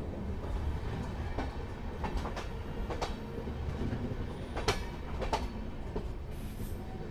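Passenger express train rolling slowly, heard from an open coach door: a steady low rumble of wheels on rails with sharp clicks and clacks at uneven spacing as the wheels pass over rail joints, the loudest clack a little under five seconds in.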